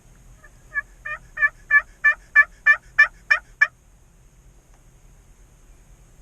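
A series of about ten turkey yelps, roughly three a second, the first few quieter, then stopping just before four seconds in.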